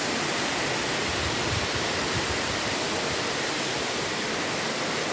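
A tall waterfall crashing down: a steady, even rush of falling water.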